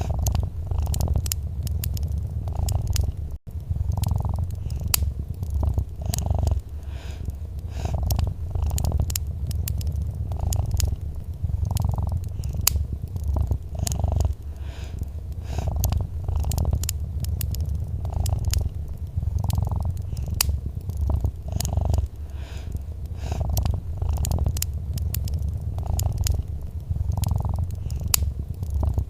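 Domestic cat purring steadily, a low rumble that swells and eases with each breath about every second and a half, with a brief break about three seconds in. Many small sharp crackles of a wood fire run over the purr.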